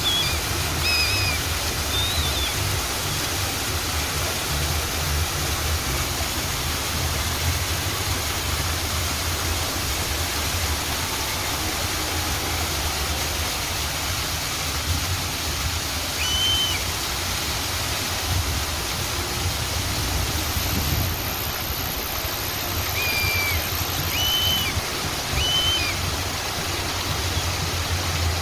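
Steady rush of running water, with a few short bird chirps: a couple near the start and several more in the last third.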